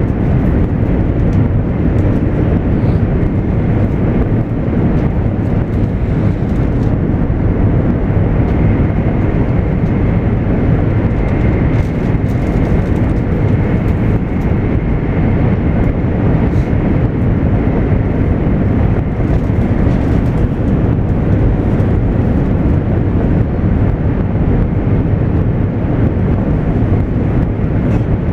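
Steady running noise heard inside the passenger cabin of a JR East 200 series Shinkansen at speed: a dense, even rumble, with a faint high whine over it for a few seconds in the middle.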